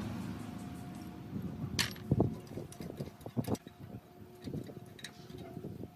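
Metal tools and parts being handled: scattered light clinks and knocks, the loudest about two seconds in.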